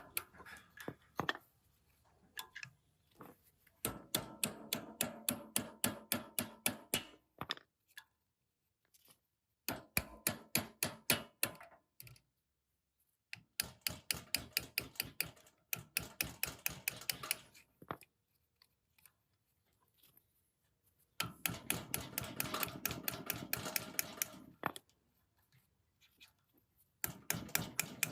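Rapid, light tapping strikes, about six a second, coming in bursts of a few seconds separated by short silences, typical of hammering on a metal part.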